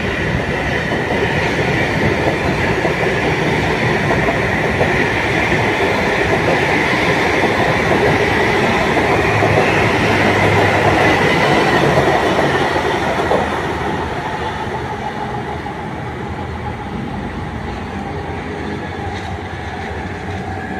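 KCIC400AF high-speed electric train running past: a loud rush of wheels on rail with a steady high whine over it, which swells to a peak about ten to twelve seconds in and then falls away as the train moves off.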